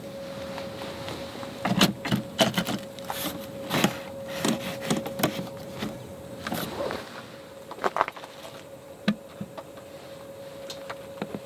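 A steady hum at one pitch, with a run of sharp clicks and knocks over it from about two seconds in to about nine seconds, thinning out near the end.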